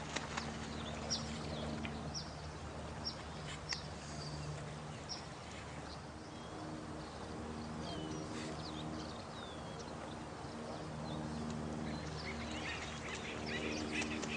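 Night nature ambience: a steady wash of running water under low, drawn-out animal calls, with short high chirps about once a second in the first half and a patter of clicks near the end.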